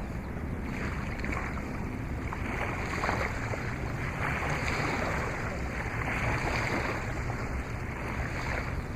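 Steady wind noise buffeting the microphone, with no clear separate event standing out.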